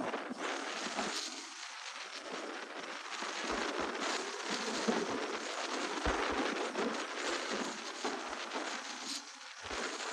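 Crackling noise of a dirt bike's tyres sliding over loose gravel and dirt on a steep downhill, with a few low knocks. The bike's brakes barely work, so it is edged down slowly.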